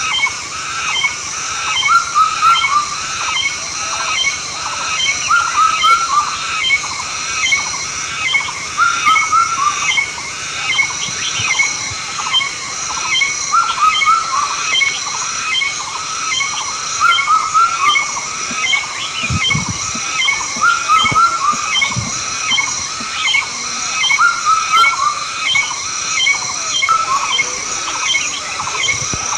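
An outdoor chorus of several kinds of wild animal calls repeating over and over, with a high on-off buzzing note above lower chirping calls. A few soft low thumps come about two-thirds of the way through.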